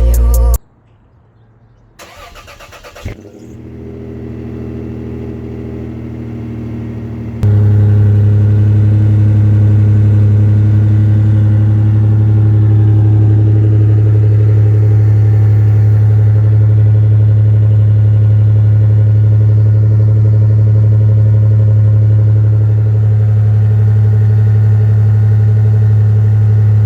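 Third-generation Toyota 4Runner engine exhausting through a Flowmaster 50 Series Delta Flow muffler: it cranks and starts about two to three seconds in and idles quietly. About seven seconds in the exhaust note turns suddenly much louder and holds a steady, deep idle.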